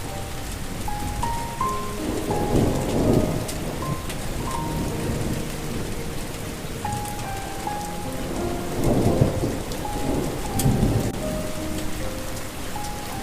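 Steady rain with two rolls of thunder, the first about two seconds in and a longer one near the middle to late part. A soft, slow melody of single held notes plays over the rain.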